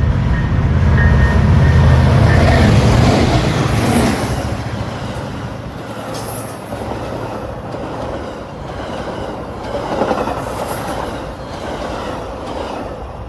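A Metra commuter train passing at speed. The lead diesel locomotives' deep engine rumble is loudest for the first four seconds or so, then the passenger cars' wheels roll over the rails with occasional clicks, gradually fading.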